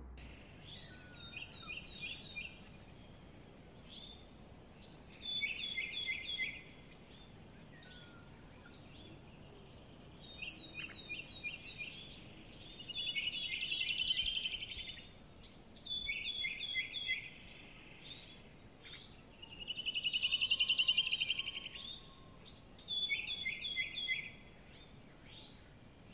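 A songbird singing: short, varied high phrases of chirps and trills, one every few seconds, over a faint hiss.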